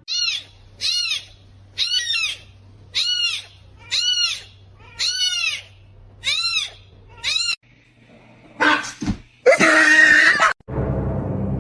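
An animal gives a series of about eight short, high-pitched calls, each rising and falling in pitch, then a couple of louder, harsher cries. Music starts near the end.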